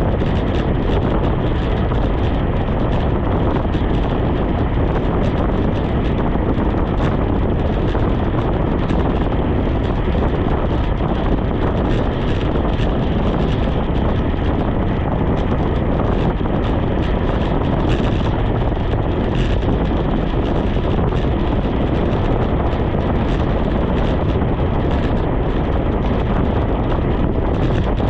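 Loud, steady wind noise buffeting the microphone of a camera carried on a moving bicycle.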